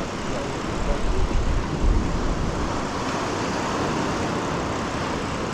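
Wind rushing over the microphone of a bicycle ride, a steady noise with stronger low buffeting gusts about one and two seconds in.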